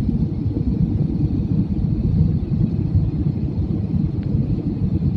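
Steady low rumble of an airliner heard from inside the passenger cabin, with no distinct events.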